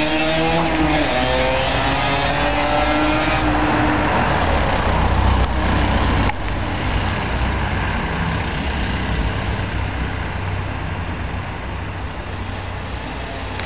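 Stock Aprilia RS50's 50cc two-stroke single accelerating hard away through the gears, its buzzing pitch climbing in steps and fading with distance. After about six seconds only a low rumble remains.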